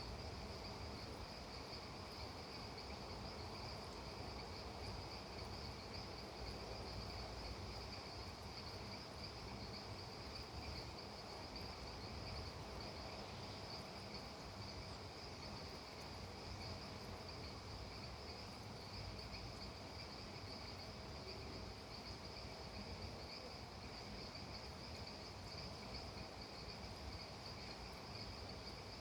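A steady insect chorus with a continuous high trill that holds unbroken, over a soft even hiss.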